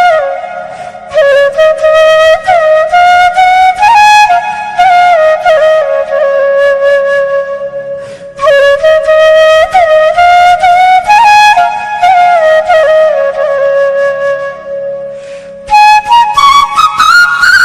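Background music: a solo flute playing a slow melody in phrases, pausing briefly about eight seconds in and again near the end, where it climbs to higher notes.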